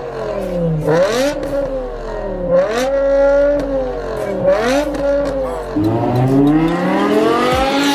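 BMW M5 E60's 5.0-litre V10 being revved: the engine note climbs and falls back several times, each fall gradual as the throttle is released, and ends on a long rising rev.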